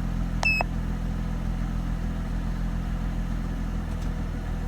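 Mercedes-Benz SLK 320's 3.2-litre V6 idling steadily, with one short high electronic beep about half a second in.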